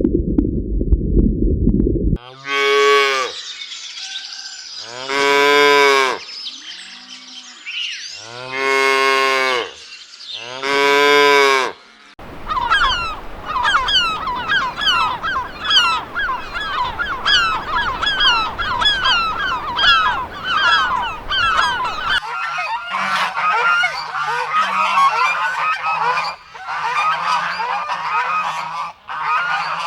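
Cattle mooing four times in long calls, then a flock of geese honking in a rapid, continuous chorus for the rest.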